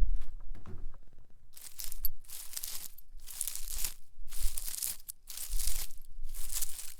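A nail worn on a fingertip scratching across spiny leaves, in about six scratching strokes, roughly one a second, starting about a second and a half in.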